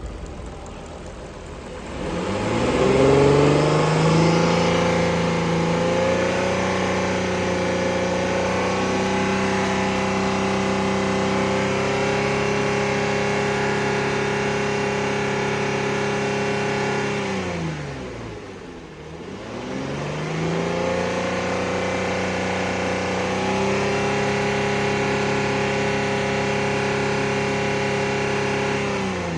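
2015 Ford Explorer's 3.5L V6 engine revved up about two seconds in and held at a steady raised speed for about fifteen seconds. It then drops back down, is revved and held again, and begins to fall off at the very end. This is an engine run test.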